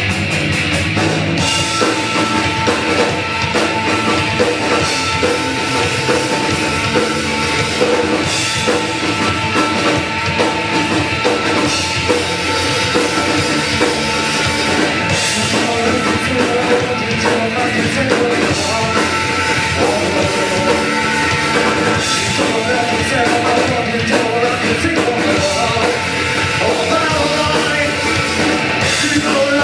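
Live rock band playing loud, distorted electric guitars over a drum kit, with some singing or shouting, heard as a live bar recording.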